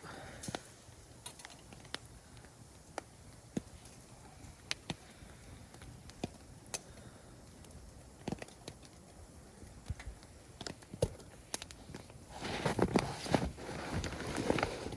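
Wood campfire crackling, with sparse sharp pops at irregular intervals. From about twelve seconds in, a denser, louder stretch of crunching and rustling.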